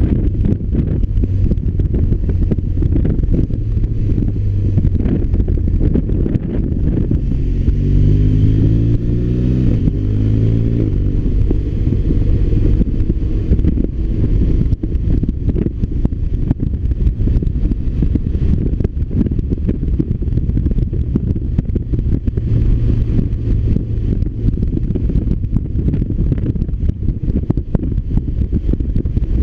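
BMW R1200RT's flat-twin boxer engine running under way, with wind rushing past the microphone. About eight seconds in, the revs rise and fall in steps for a few seconds before the engine settles back to a steady pull.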